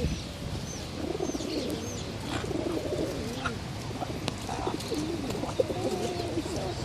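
Several pigeons cooing in overlapping, wavering low calls, with small birds chirping high and briefly in the first few seconds.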